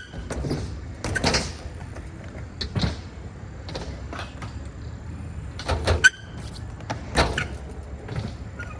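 BMX bike riding on a ramp: tyres rolling with a steady rumble, broken by several sharp knocks and clunks of the bike hitting the ramp, the loudest about six seconds in.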